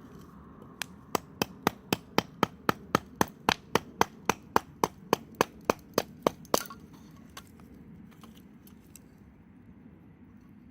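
A fast, even series of about twenty sharp knocks, roughly three and a half a second, that stops abruptly after about six seconds.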